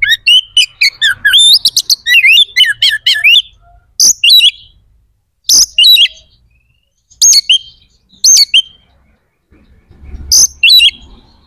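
Oriental magpie-robin singing loudly in full song. It opens with a fast run of varied whistled and chattering notes for about three seconds, then gives short separate phrases every second or two.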